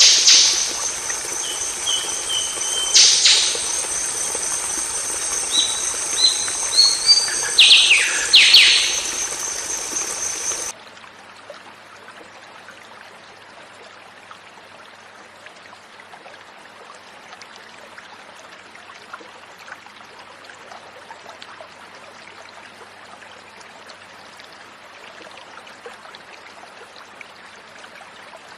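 Golden oriole calling: short whistled notes, a few stepped rising notes and several quick downward-sweeping calls, over a steady high-pitched whine. About ten seconds in the bird recording cuts off abruptly, leaving a much quieter even hiss with faint ticks.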